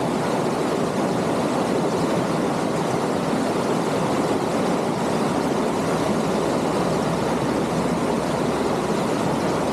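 Creek water running over stones: a steady, unbroken rushing.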